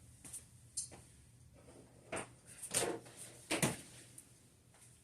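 A handful of short, soft knocks and clicks, about five of them spread unevenly, over a faint steady low hum.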